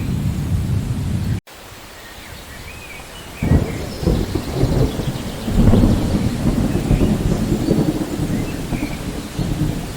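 Thunderstorm: steady rain under deep rolling thunder. The rumble cuts off suddenly about a second and a half in, leaving lighter rain. A couple of seconds later a new thunder roll begins sharply, builds and rolls on.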